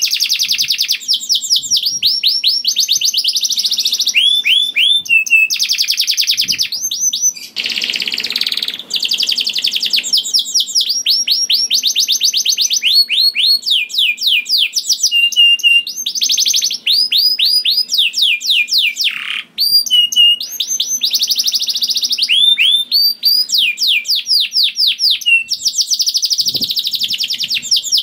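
Male domestic canary singing a long, unbroken song of rapid trills. It runs fast repeated notes in groups, switching to a new trill every second or two, with a brief falling note and pause about 19 seconds in.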